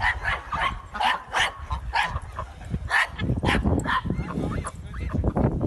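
A dog making a rapid series of short yips and whimpers, about two a second.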